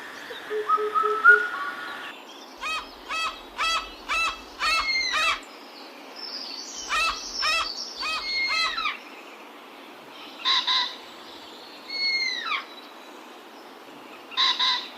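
Bird calls: a run of short notes repeated about twice a second, several ending in a downward slur, then a few single calls spaced out near the end.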